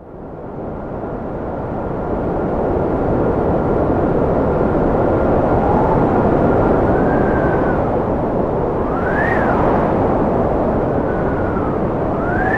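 Cold wind blowing hard, fading in from silence over the first couple of seconds, with high whistling tones that rise and fall in the gusts from about halfway through.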